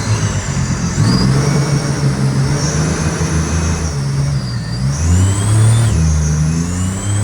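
A vehicle engine running and being revved. Its pitch steps up and down, dips, then climbs again about five seconds in.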